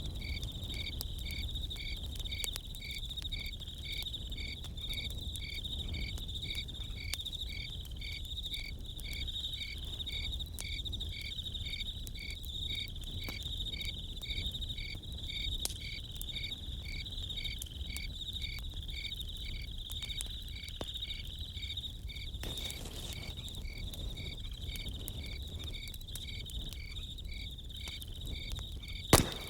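Crickets chirping steadily: one pulses about twice a second over a continuous high insect trill. Faint scattered crackles and a low rumble run beneath, typical of a campfire, with one sharp snap near the end.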